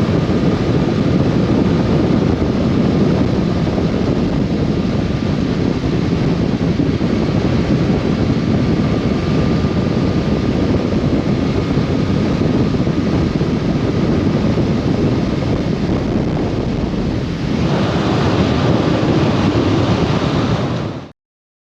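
Steady wind rush buffeting the microphone over a low rumble. The sound shifts slightly about four seconds before the end, then cuts off abruptly.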